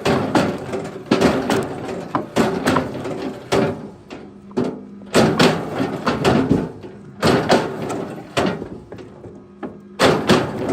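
Firewood logs knocking and thudding against each other as they are thrown onto a pile: irregular clusters of hard wooden knocks, several in quick succession, with short pauses between them.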